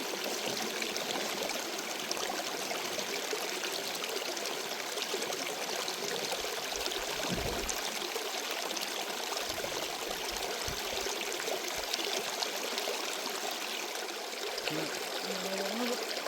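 Steady rush of flowing stream water. Near the end a brief low voice-like sound rises over it.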